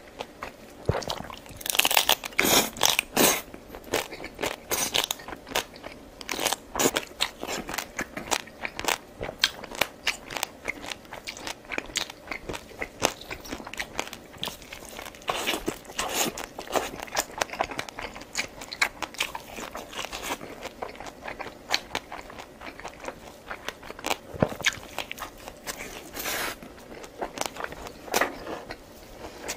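Close-miked eating: a long run of crunchy bites and chewing, the loudest crunching about two to three seconds in.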